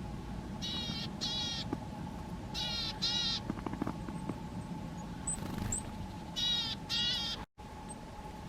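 A corvid giving harsh cawing calls in three pairs, each call short with a rough, wavering tone, over a low rumble of wind.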